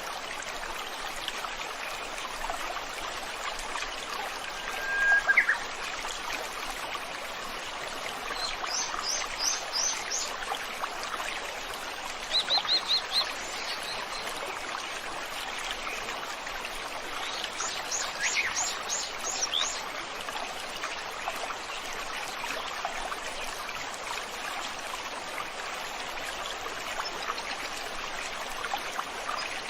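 A river flowing steadily, with birds singing over it: a short call about five seconds in, then quick runs of high chirps a few times.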